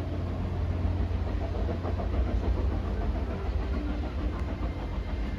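Train running along the track, a steady low rumble with some rattle from the cars.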